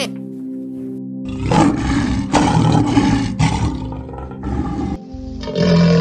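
A large wild animal's rough, deep roar in several pulses over about four seconds, over steady background music; a different animal call starts near the end.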